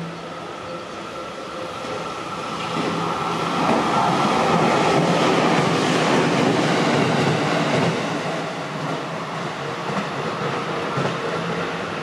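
Electric train running past close by on rain-soaked track: a rush of wheel and track noise that swells about three seconds in, stays loud for several seconds, then eases off, with a faint steady whine early on.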